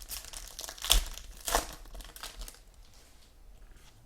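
Foil card pack being torn open and crinkled, with two louder crackles about one and one and a half seconds in, then quieter handling.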